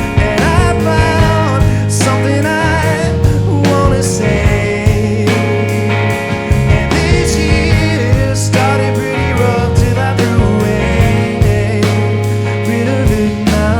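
A band playing a song: steady bass notes and regular drum and cymbal hits, with a wavering melody line over them.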